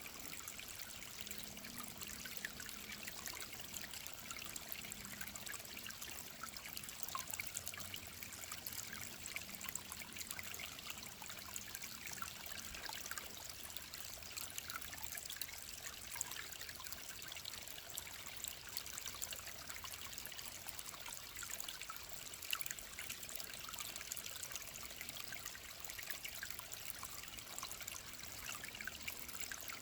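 A clear mountain stream trickling and babbling over stones, a steady bright splashing with many small droplet sounds.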